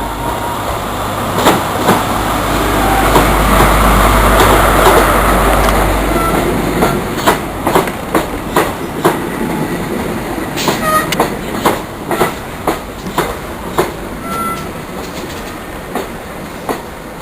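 Train passing close by: a deep rumble that swells to its loudest a few seconds in, then a steady run of wheel clicks over the rail joints as the carriages go by, fading toward the end.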